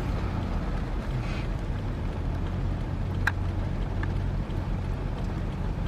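Heavy machinery's diesel engine running steadily with a low, even hum. A single short, sharp click comes about three seconds in.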